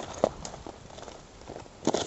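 Footsteps on rough volcanic lava rock, crunching and clacking. The two sharpest steps come about a quarter second in and near the end.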